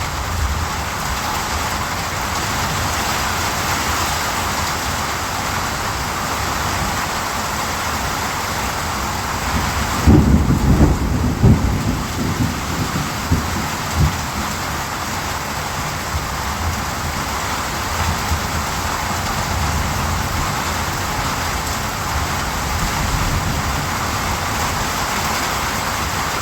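Steady rain falling, an even hiss. About ten seconds in a low roll of thunder rumbles for a couple of seconds, with one more low thump shortly after.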